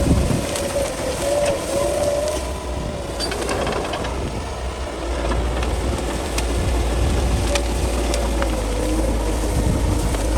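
Bulldozer's diesel engine running under load while it pushes through brush, its note wavering slightly up and down over a constant low rumble, with scattered sharp cracks and clicks.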